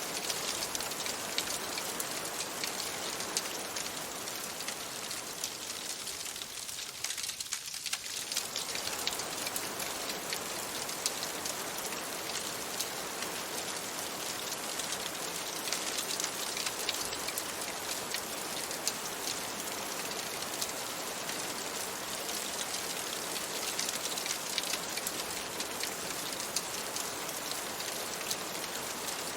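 Steady rain, a dense even patter of drops with many small sharp ticks; the lower part of the sound thins out briefly about seven seconds in.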